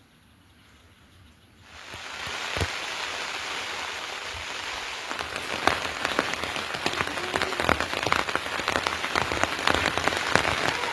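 Rain falling, coming in abruptly about two seconds in after a quiet start, with sharp drop hits on a surface growing more frequent in the second half.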